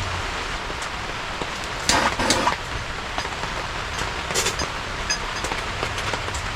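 Heavy rain falling steadily, with a short burst of clattering knocks about two seconds in and another near four and a half seconds.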